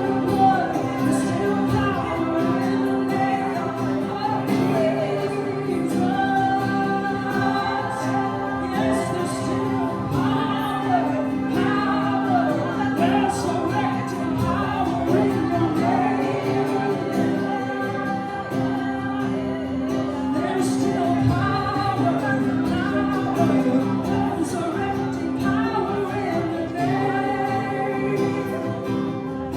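Worship music with several voices singing freely over a steady sustained instrumental drone: spontaneous congregational worship.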